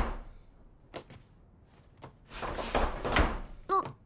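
A sliding door running along its track for about a second, after a single click. A brief pitched sound follows near the end.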